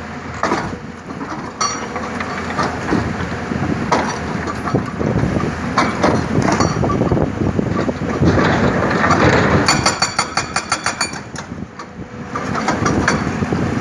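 Excavator-mounted hydraulic breaker hammering, a dense run of rapid metallic blows over the excavator's running engine. About ten seconds in, the blows turn very even and fast for a second or so.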